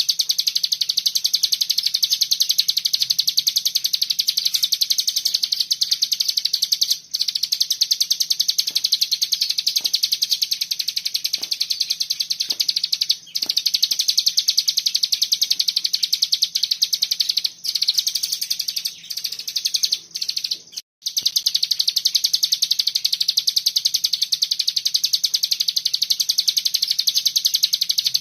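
A cigun songbird singing a continuous 'bren' song: a very fast, tightly packed chatter of high notes that runs on with only a few brief breaks, the longest a few halting seconds about two-thirds of the way through. A faint steady low hum lies underneath.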